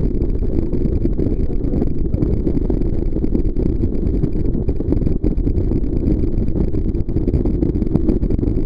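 Jet boat underway, a steady, loud low rumble.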